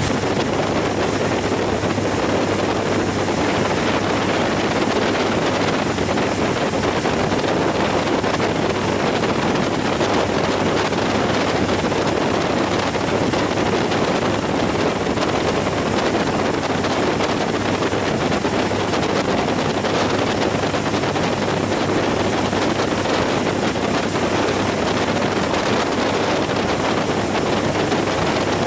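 Steady wind rushing over the microphone on a cruise boat under way, with the boat's engine running as a low steady hum beneath.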